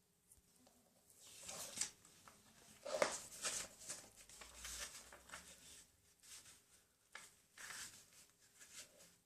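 A sheet of paper being handled and folded: irregular rustling and crinkling, with a sharper crackle about three seconds in.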